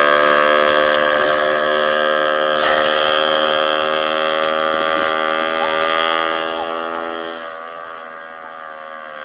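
Small dirt bike engine running at a steady pitch, fading away over the last couple of seconds.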